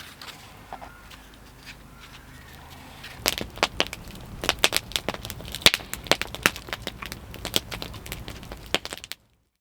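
Wood fire crackling, with many irregular sharp pops and snaps starting about three seconds in; the sound cuts off suddenly near the end.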